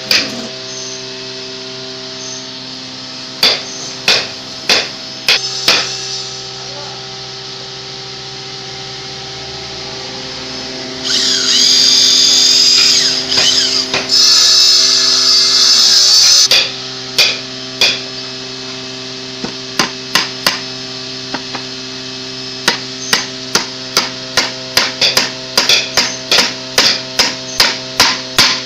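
Hammer blows on wood while building a chair: a few spaced strikes, then a quicker run of about two or three blows a second near the end. In the middle a power tool runs with a high whine for about five seconds, in two stretches. A steady hum sits underneath.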